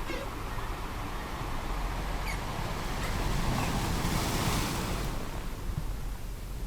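Ocean surf, with a wave swelling up about three seconds in and washing back out.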